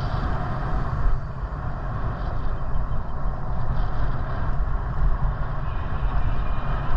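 Wind buffeting the microphone of a moving bicycle, a loud, choppy rumble mixed with road noise.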